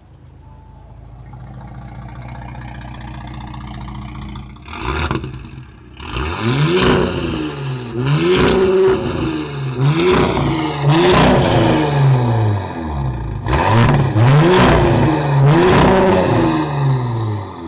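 Audi B9's 3.0-litre turbo V6 through a Quicksilver 3-inch valved exhaust with aftermarket downpipe, idling and then free-revved. One short blip comes about five seconds in, then a series of about six sharp revs, each rising and falling quickly.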